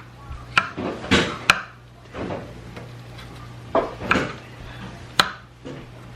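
Kitchen utensils and dishes clattering: a few irregular sharp clicks and knocks over a steady low hum.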